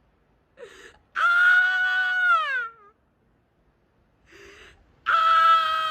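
A woman's long, high-pitched wailing cries: two drawn-out wails, each held about a second and a half and falling off at the end, each preceded by a sharp gasping breath, with a third starting near the end.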